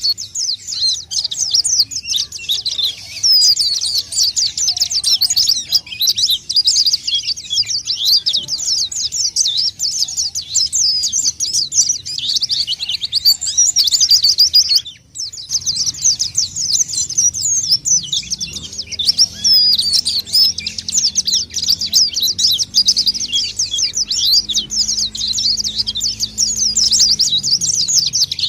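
White-eyes (pleci) singing in rapid, dense, high-pitched twittering, a bird-trapping lure recording of an actively singing bird. The song breaks off for a moment about halfway, then resumes.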